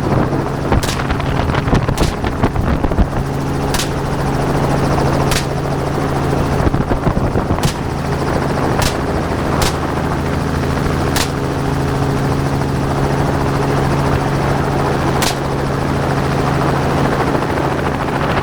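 Helicopter running steadily in flight, with about nine sharp gunshots at irregular intervals over the first fifteen seconds, fired from the helicopter at hogs.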